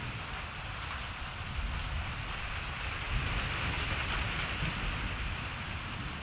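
Steady rain falling, with a low rumble of distant thunder that swells about a second and a half in and fades again near the end.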